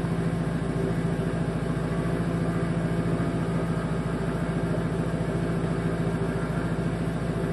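Ford 6.0 Powerstroke V8 diesel idling steadily just after a cold start at 17 degrees, not plugged in and not on high idle, with the fast, even clatter of a diesel idle.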